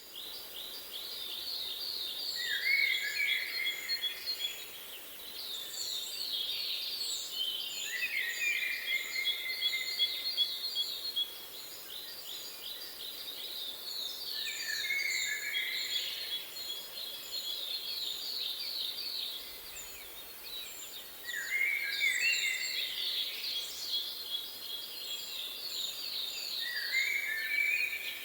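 Songbirds singing: rapid trilled phrases of quick falling notes that come back every few seconds, with lower chirps and thin high notes between them, over a faint steady background hiss.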